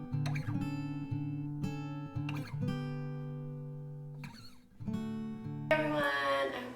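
Acoustic guitar music, plucked and strummed chords ringing on. Near the end a voice comes in over it.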